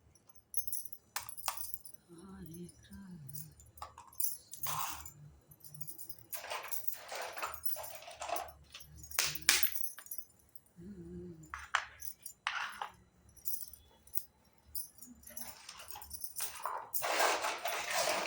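Small plastic toy kitchen pieces and their packaging handled close up: an irregular string of clicks, taps and rustles, with brief low pitched sounds about two and eleven seconds in.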